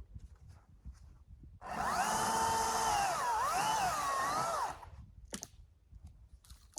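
Battery-powered top-handle chainsaw running for about three seconds, its electric motor whine dipping and recovering in pitch as the chain bites into wood, then stopping. Light crunches and clicks before and after.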